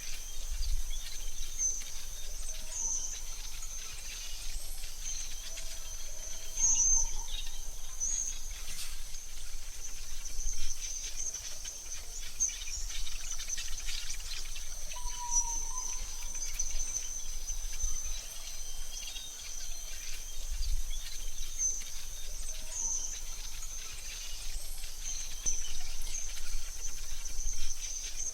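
AI-generated forest ambience: a steady high-pitched insect drone with scattered faint bird chirps over a soft background hiss and low rumble.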